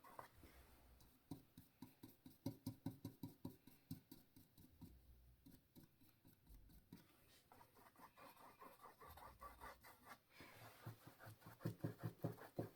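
Paintbrush scrubbing back and forth on canvas, blending wet paint: faint, quick strokes, several a second, with a lull partway through.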